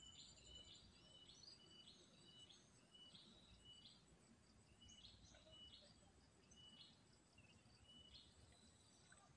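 Near silence, with faint bird chirps in the background: short high notes, each stepping up in pitch, repeated every half second or so with a few pauses.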